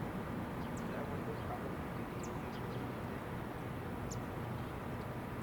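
Steady outdoor background rumble with a few brief, high-pitched bird chirps every second or two.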